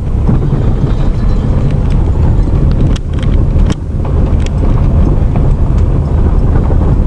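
Vehicle on the move, a loud steady low rumble of road and wind noise, with a few sharp knocks a little past the middle.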